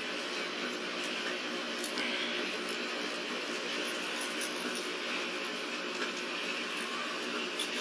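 Dexter commercial stack dryer running with a steady hum, its control board just replaced and the dryer working again. A few faint light metallic clicks sound over it.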